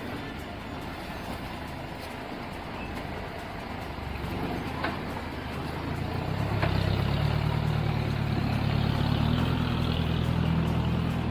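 Off-road 4x4 vehicle's engine running, getting louder about halfway through as it revs up, with a couple of short knocks around the same time.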